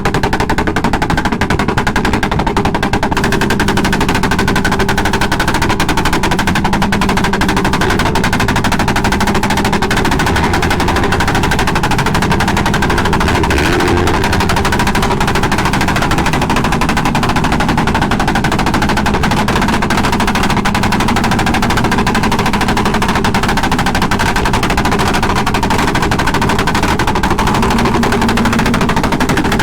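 Motorcycle engine running steadily with an open exhaust, its firing pulses so fast and dense that they blur into one continuous rapid rattle with no breaks.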